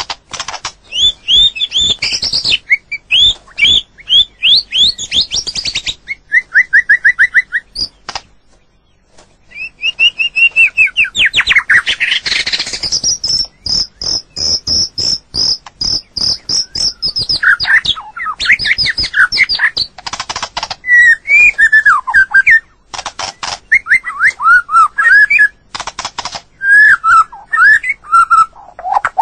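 White-rumped shama singing a long, varied song of loud whistles, fast trills and chirps. A high, sustained phrase runs through the middle, after a brief pause about nine seconds in.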